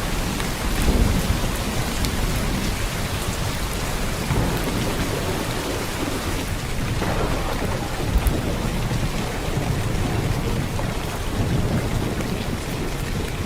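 Heavy downpour of rain, a steady dense hiss of drops, with low rumbles of thunder swelling beneath it several times, the strongest about a second in.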